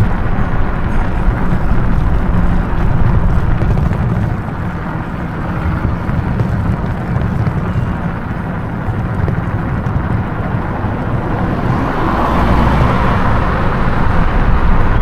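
Loud wind buffeting on the microphone with tyre and road rumble as an e-bike runs fast downhill at around 38 mph. The rush swells again over the last few seconds.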